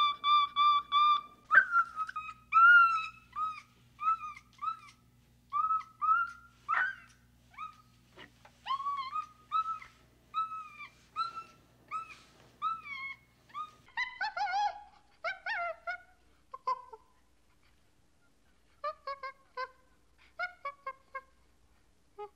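A long series of short, high-pitched animal calls, each a brief note that rises and falls, at one or two a second. About 14 seconds in, lower-pitched calls take over, coming in short clusters with pauses between them.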